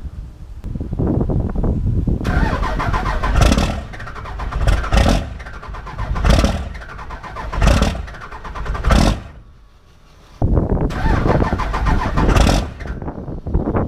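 P-pumped 24-valve Cummins 5.9 inline-six diesel running cold, with no grid heater, just after its first cold start. It is blipped in short revs about every second and a half, dips briefly about ten seconds in, then runs loud again.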